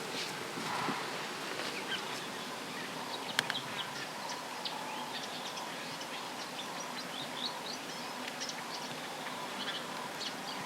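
Many short, high bird chirps and calls over a steady hiss of outdoor ambience, with one sharp click about a third of the way in.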